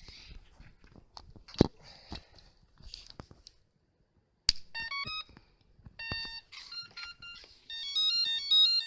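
Clicks and a sharp snap as the battery connector is plugged back in, then the electronic speed controllers play their power-up beep tones through the brushless motors: short beeps at several stepped pitches, coming in quicker runs near the end. With the servo tester turned to full throttle at power-up, the beeps mark the ESCs entering throttle calibration.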